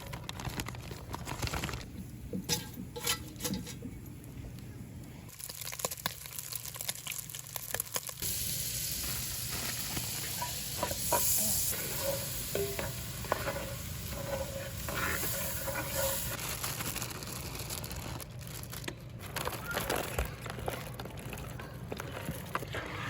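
Cooking over a campfire: food sizzling, with a utensil stirring and clinking in a pot, and a steady low hum underneath.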